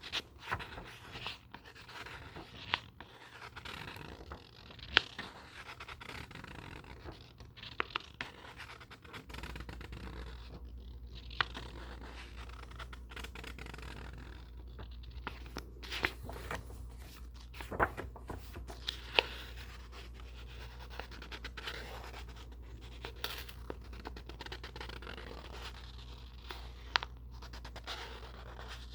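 Books handled close to the microphone: paper and covers scratched, scraped and rustled, with sharp taps and clicks every few seconds. A low steady hum comes in about nine seconds in.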